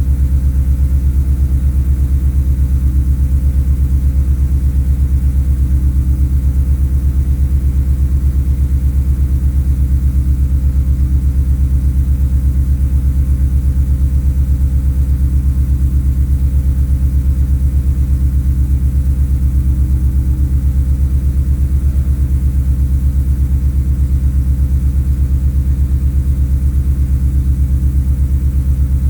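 Ford Coyote 5.0 L V8 idling steadily, exhaust note through long-tube headers, a Magnaflow muffler and two 3-inch Vibrant resonators.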